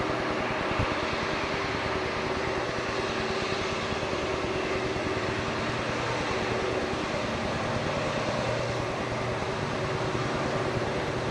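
Southern Pacific diesel locomotives running with a steady drone and hum, holding an even level throughout.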